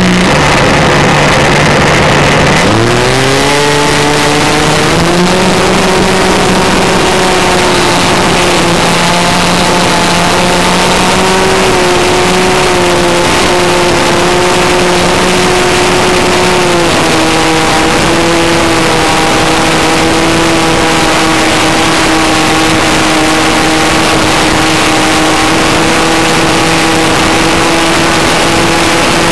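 Model airplane engine and propeller heard from a camera on board the plane, running loud and steady under a constant rush of air. The pitch drops about three seconds in, then climbs back over the next few seconds as the throttle opens, and sags slightly again a little past halfway.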